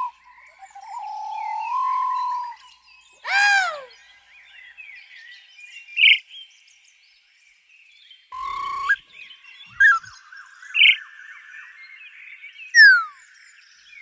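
A string of bird calls: a pulsing call that rises in steps, one loud call about three and a half seconds in, short chirps, and a quick falling whistle near the end.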